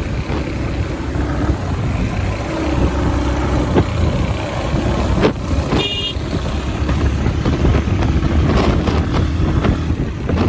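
Motorcycle riding through road traffic: a steady engine rumble with road and wind noise. A vehicle horn beeps briefly about six seconds in.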